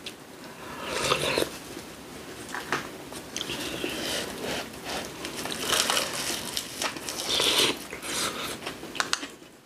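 Close-up eating sounds: biting and chewing a wrapped mouthful of seasoned cockles and radish salad, in irregular bursts, loudest about a second in and again around six and seven seconds in.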